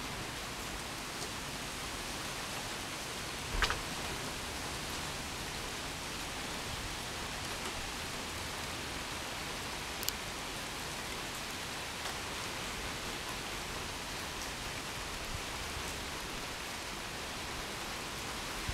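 Steady rain falling during a thunderstorm, an even hiss, with one louder short tap about three and a half seconds in and a faint click about ten seconds in.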